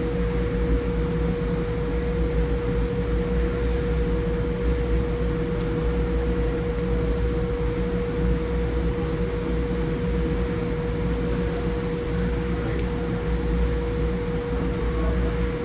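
Steady mechanical hum, like a ventilation fan or air-conditioning unit, with a low rumble and a constant mid-pitched tone. A few faint clicks come about five seconds in.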